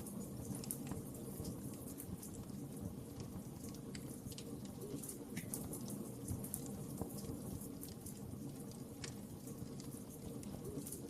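Fire burning in a fireplace: a steady low rumble of flames with scattered sharp pops and crackles every fraction of a second to a second.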